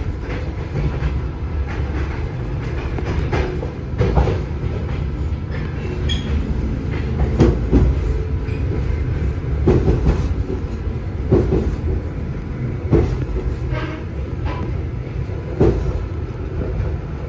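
Passenger train carriage rolling along the track, heard from inside: a steady low rumble, with a sharp wheel knock every couple of seconds.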